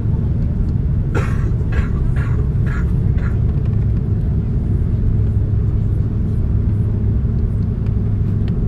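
Steady low rumble of an Airbus A330 cabin during taxi, the engines and airframe running continuously. A handful of short higher sounds come between about one and three seconds in.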